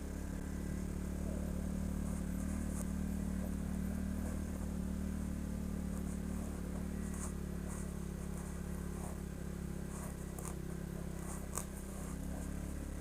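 ATV engine running steadily at low speed, its pitch holding even, with scattered light clicks and rattles and one sharper tick near the end.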